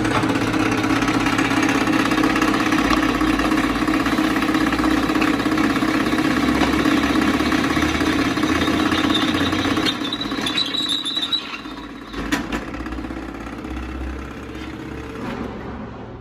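A machine running with a steady engine-like hum. About ten seconds in it drops away, leaving quieter clatter and a few sharp knocks.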